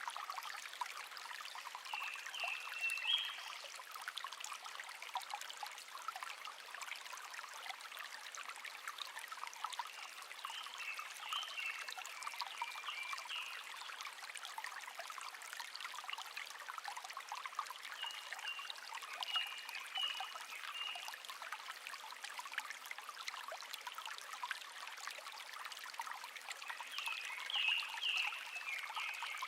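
Shallow stream babbling and trickling steadily, with a songbird singing short phrases four times over it.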